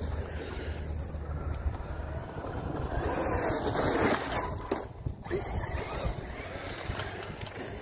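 Electric Traxxas RC truck driving on dirt, its tyres and drivetrain noise swelling to loudest about four seconds in as it passes, with wind on the microphone.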